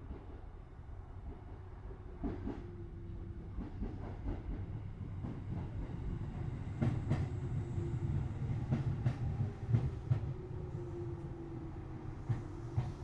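Tobu Railway 6050 series electric train heard from inside a motor car as it moves off slowly. A steady low rumble and a faint motor hum carry throughout, with irregular clacks of the wheels over rail joints and points, louder from about seven seconds in.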